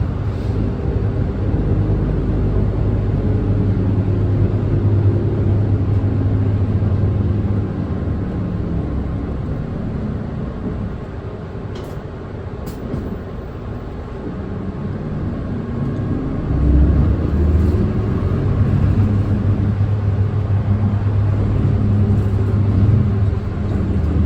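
Diesel engine of a Nissan Diesel Space Runner city bus heard from inside the cabin while driving: it runs steadily under load, eases off about a third of the way in, then picks up again with a rising pitch as the bus accelerates. Two short clicks near the middle.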